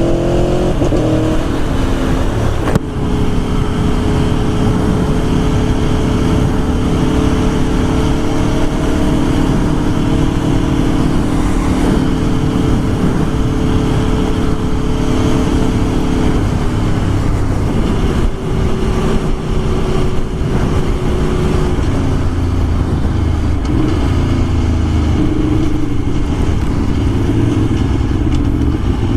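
Aprilia Tuono V4 1100's V4 engine pulling hard as it accelerates. There is a shift about three seconds in, then long stretches at steady revs, with the engine note rising and falling again in the last third.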